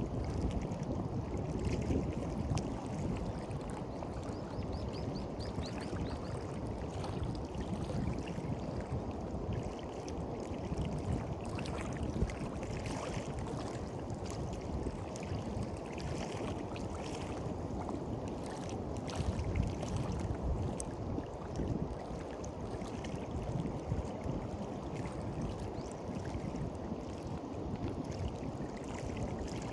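Small sea waves washing and lapping at the shore in a steady, unbroken wash, with a fizzing crackle as the water runs over the beach.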